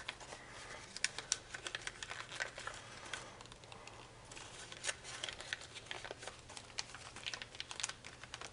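A sheet of foil origami paper being folded and pinched by hand, giving soft, irregular crinkles and small ticks.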